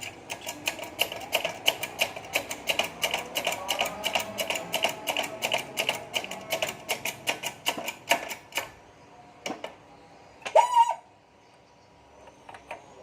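Rapid, evenly spaced metallic clicking, about four to five a second with a ringing metal tone under it, from the tool work of pressing a Honda Vario 125 crankshaft and connecting rod back together. It stops about eight and a half seconds in; near eleven seconds a short, loud squeak is heard.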